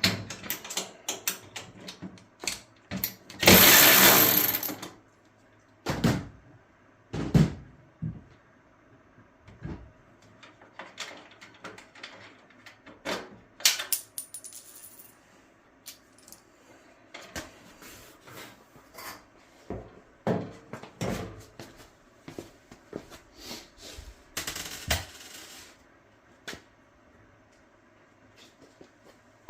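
Metal clinks and knocks of wrenches, nuts and washers as a dryer's drum-support rollers are unbolted and refitted, scattered throughout, with two longer noisy bursts, one about four seconds in and one near the end.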